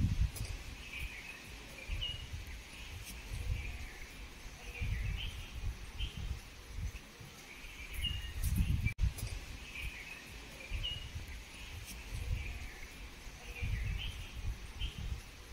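Small birds chirping every second or two in short, slightly rising calls, over irregular low rumbles.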